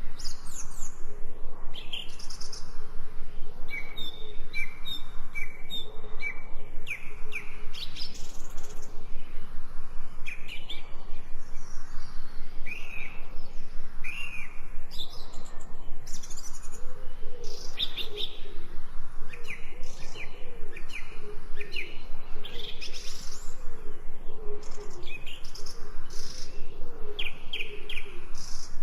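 Several songbirds chirping and calling, short bright notes overlapping, one repeating a quick series of even notes about four seconds in, over a steady outdoor hiss. A lower wavering call runs underneath through the second half.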